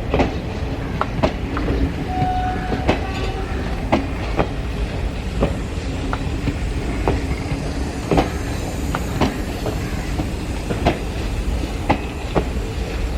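Passenger train coaches rolling along the track behind an electric locomotive: a steady low rumble with irregular wheel clicks over rail joints about once or twice a second, and a brief faint squeal about two seconds in.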